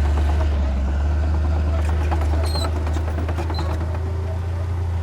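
Heavy diesel earthmoving machinery running steadily with a deep, constant drone, with scattered metallic knocks and clicks over it.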